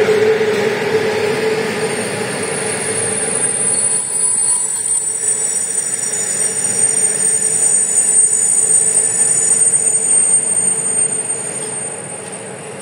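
Freight train wagons rolling past on the rails, a steady rumble of wheels with a high, thin squeal setting in about two seconds in. The noise falls away near the end as the train draws off.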